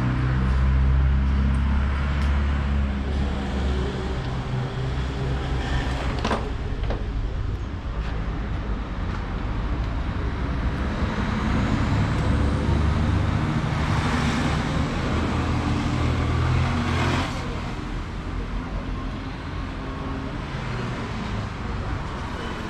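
An engine running with a low hum that swells and fades. There is a sharp click about six seconds in, and a hissing rush from about fourteen to seventeen seconds.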